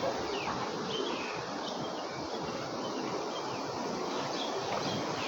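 Steady rushing water of a waterfall, with short high chirps scattered over it.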